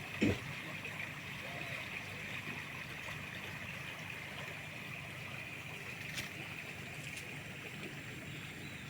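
A river flowing steadily, with a single dull thump just after the start.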